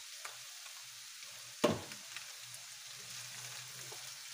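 Sliced potatoes and ground beef sizzling steadily in a hot frying pan, with a few light clicks of a spatula turning them. One sharp knock sounds about one and a half seconds in.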